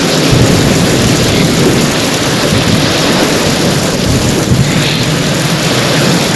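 Heavy rain falling in a steady downpour, with a low rumble of thunder underneath.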